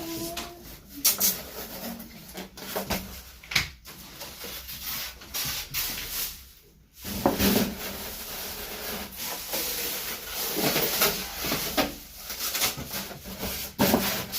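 Packing material being worked off a new refrigerator: continuous rubbing and scraping, broken by a few sharp knocks.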